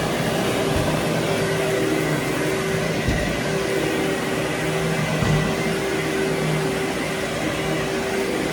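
Vacuum motor running steadily over carpet, a constant whine with a few light bumps.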